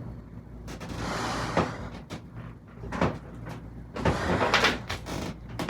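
Handling noises: a series of knocks and short scraping swishes, irregularly spaced, over a low steady hum.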